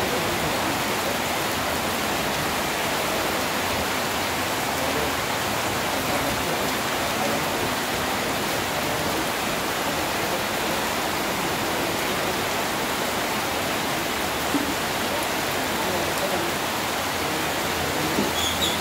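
Heavy rain falling, a steady dense hiss, with a few faint knocks near the end.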